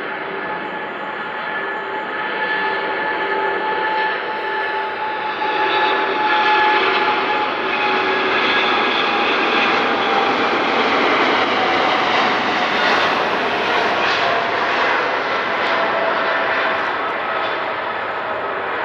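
Boeing 777's GE90 turbofan engines at takeoff thrust: a jet roar that builds over about six seconds, holds, then slowly fades as the aircraft passes. Steady whining fan tones run through it and drift slightly lower in pitch.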